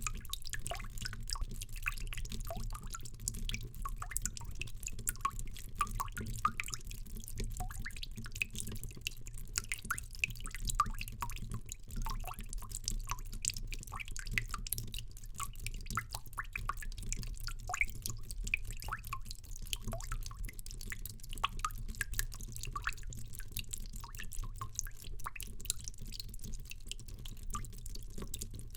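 Water drops falling in quick irregular succession, each a short pitched plink or plop, many overlapping, over a low steady hum.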